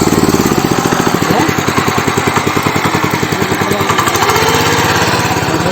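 Mini power tiller's 7.75 HP engine running with a rapid, even chugging beat, its pitch rising a little near the end.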